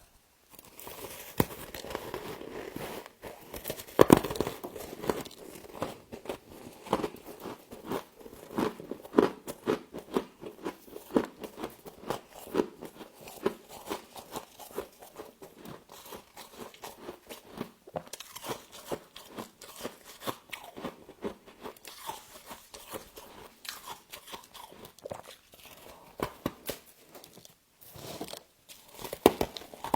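Close-up crunching and chewing of frost from a humidifier: repeated sharp bites and grinding crunches, with one loud bite about four seconds in, the crunches thinning out near the end.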